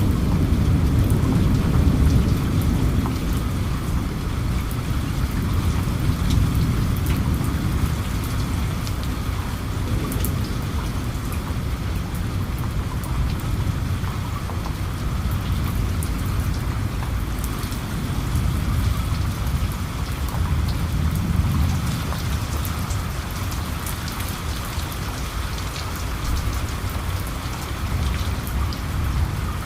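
Steady rain falling, with many fine drop ticks, over a low rolling rumble of distant thunder that swells near the start and again about two-thirds of the way through.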